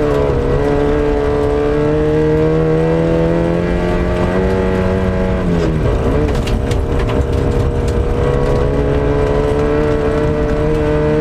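Lada Samara rally car's four-cylinder engine, held at high revs under load. About halfway through the revs drop briefly, as at a gear change or lift, with a few sharp clicks, then climb back and hold.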